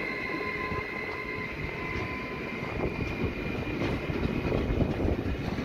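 Freight train of loaded car-carrier wagons rolling past, wheels rumbling and clacking irregularly over the rails. A high steady whine fades out in the first second.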